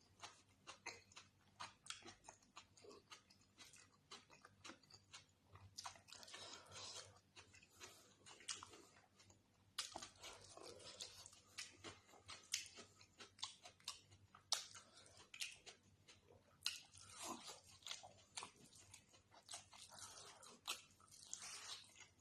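Close-miked chewing and eating of chicken drumstick curry and rice: irregular wet smacks, sharp mouth clicks and bites throughout.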